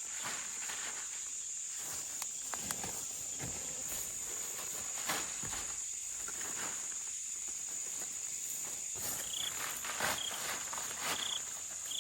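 Insects shrilling in a steady high drone, with scattered rustles and clicks of footsteps in the undergrowth. A few short, high chirps come near the end.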